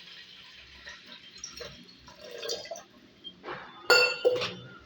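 Water being poured into a Pigeon stainless-steel electric kettle, faint at first. Near the end come a few sharp clinks that ring briefly, the loudest about four seconds in.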